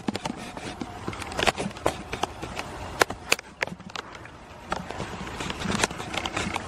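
Steady light rain with irregular sharp taps of drops landing close to the microphone.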